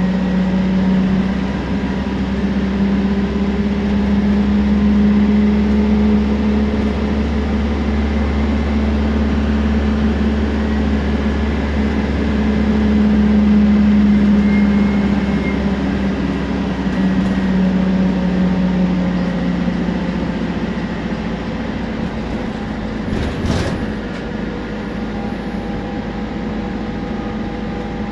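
Temsa Prestij SX midibus's diesel engine pulling under way, a steady drone with faint whining tones, from the turbo and the differential, over it. It swells and eases a few times, drops off about 20 s in, and there is a brief knock or rattle a few seconds later.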